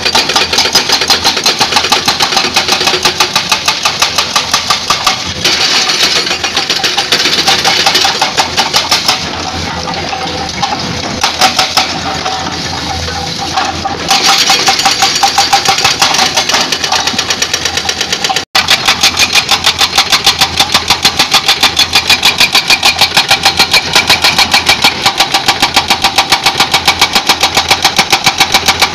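Excavator-mounted hydraulic breaker hammering rock in a fast, even stream of blows over the excavator's running engine. It stops hammering for a few seconds about a third of the way in, then starts again.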